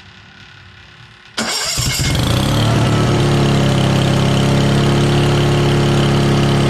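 Carbureted gasoline engine of a Case skid steer starting on choke: after a quiet moment it suddenly fires about a second and a half in, stumbles briefly, then settles into steady running.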